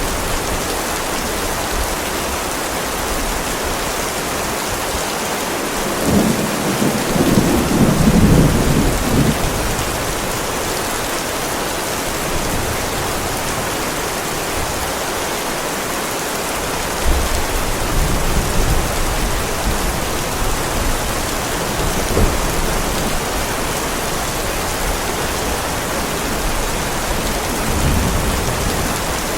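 Heavy rain pouring steadily onto a driveway, with rumbles of thunder rolling in, the loudest about six seconds in and lasting a few seconds, and fainter ones later.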